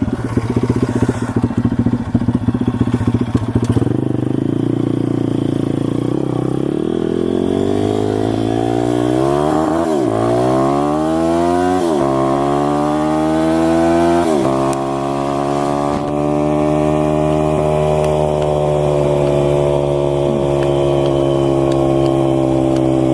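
SSR 160 pit bike's single-cylinder four-stroke engine, choppy and uneven for the first few seconds, then accelerating through the gears: the pitch climbs and drops sharply three times as it shifts up, about ten, twelve and fourteen and a half seconds in. After that it settles into steady cruising, its pitch easing slowly.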